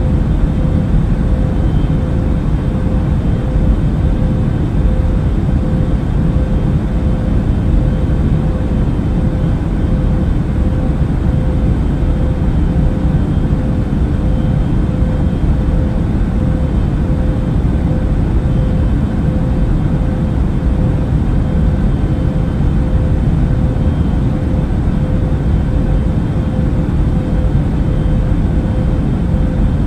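Airplane cabin noise: a steady, even low rumble of engines and rushing air, with a faint steady hum over it.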